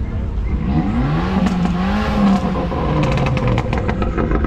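A Fiat Abarth's engine revving up and dropping back, then a quick run of exhaust pops about three seconds in as the revs fall.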